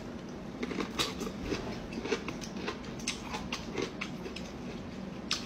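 Close-up chewing of a hand-peeled bamboo shoot, heard as irregular wet crunches and mouth clicks, with the shoot's sheath being peeled apart by hand.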